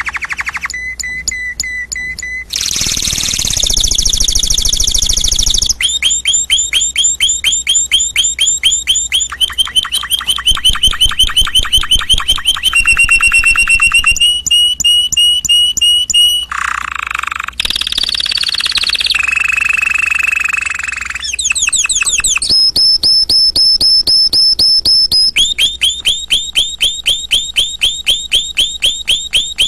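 Canary singing a long continuous song of fast trills of repeated notes, switching every few seconds between quick rolls, held whistles and high rattling phrases.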